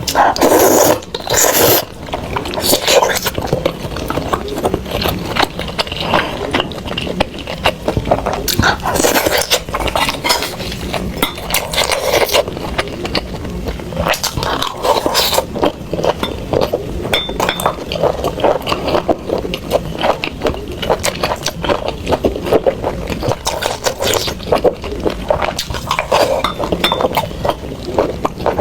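Close-miked eating of Buldak fire chicken noodles: utensils scraping and clinking against the dish, mixed with chewing and mouth sounds. It is a dense run of small clicks and crackles, louder for the first couple of seconds.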